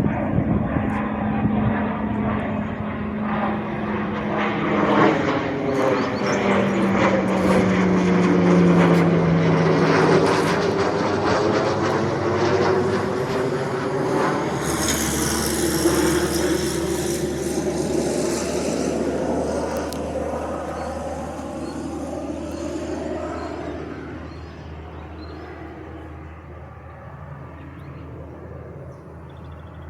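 Pilatus PC-21 turboprop trainer flying past, its engine and propeller drone steady, then dropping in pitch as it passes. It fades away over the last several seconds.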